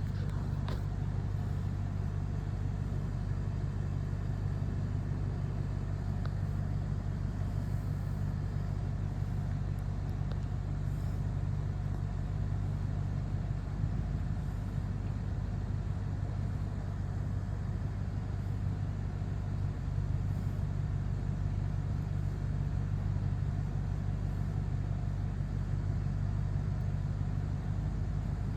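A steady low mechanical hum that holds at one level without swelling or fading.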